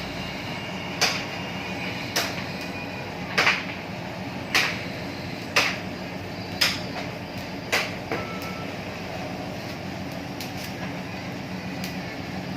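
Krupuk (cracker) making machine running with a steady hum and a sharp mechanical clack about once a second; the clacks stop about eight seconds in while the motor keeps running.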